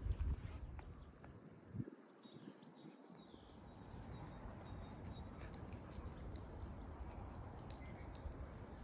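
Small birds chirping with short, high notes repeated over a steady background hiss, after a brief low rumble at the start.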